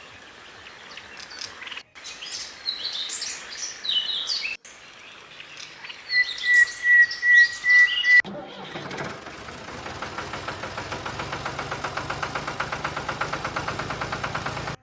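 Birds chirping and calling in short whistles, with a held, wavering whistle near the six-second mark. From about eight seconds in, a steady rapid pulsing, about five beats a second over a low hum, takes over.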